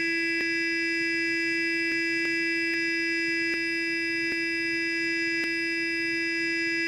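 Sonic electric toothbrush buzzing steadily, a constant high hum with faint clicks every second or so.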